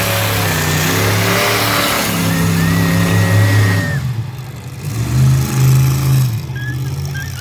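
Monster truck engine revving hard, its pitch rising and falling, easing off briefly about four seconds in before revving up again.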